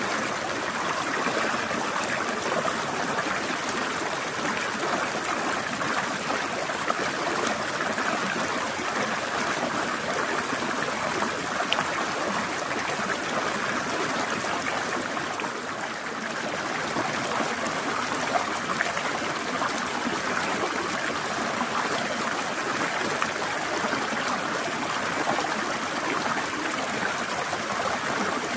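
Small stream of water flowing and trickling over rocks, a steady dense rushing with no break.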